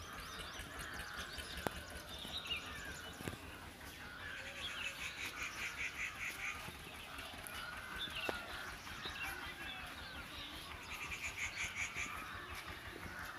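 Small birds chirping and twittering, with a rapid trill twice, and a few sharp clicks.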